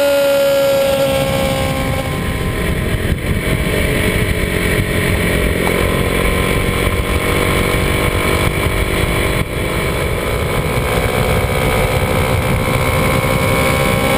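Kawasaki D-Tracker 250's single-cylinder engine running under way, heard with heavy rumbling wind and road noise. The engine note drops away in the first couple of seconds and climbs again near the end.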